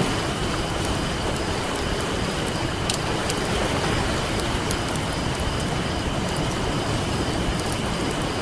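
Campfire crackling with scattered sharp pops, the loudest about three seconds in, over a steady wash of ocean surf.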